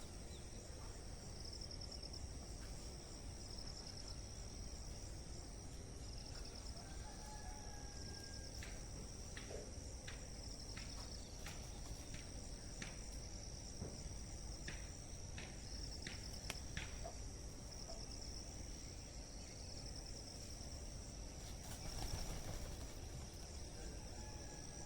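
Insects trilling: a steady high-pitched drone with short pulsed chirps repeating every second or two, over a low background rumble with scattered sharp clicks.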